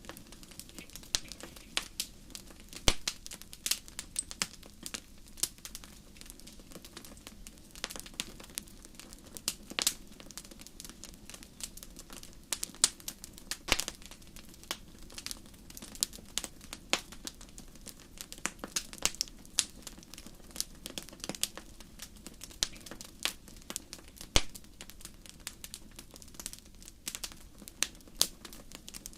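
Wood fire crackling in a fireplace: irregular sharp snaps and pops, several a second and a few louder ones, over a low steady background of the burning fire.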